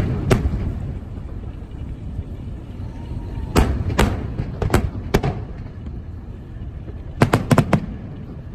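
Fireworks shells bursting in sharp bangs: one just after the start, four or five spaced bangs in the middle, and a quick cluster of four or five near the end, over a steady low rumble.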